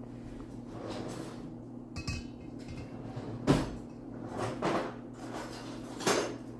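Kitchen clatter: a few separate knocks and clinks of bowls, cups and utensils being handled, the loudest about halfway through.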